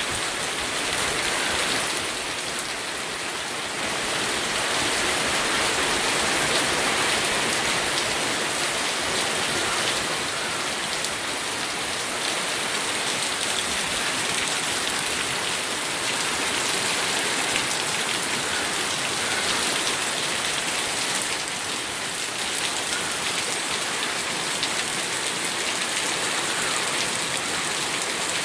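Steady rain falling and pattering on surfaces, a dense even hiss of drops that swells and eases slightly.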